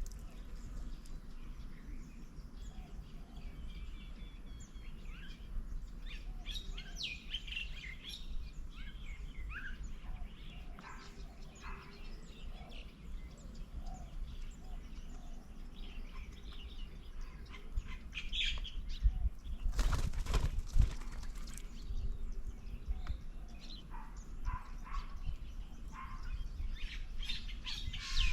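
Garden birds at a bird table giving short scattered chirps and calls, with a louder flurry of wing flaps about twenty seconds in, over a steady low rumble.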